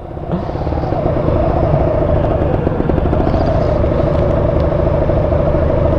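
Kawasaki Ninja 150 RR's single-cylinder two-stroke engine running steadily under way at a fairly constant speed.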